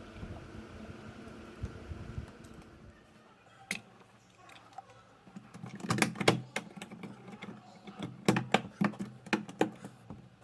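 Hard plastic parts of a washing machine's drain valve assembly clicking and clacking in quick clusters as they are fitted back together, after a few seconds of steady background hum.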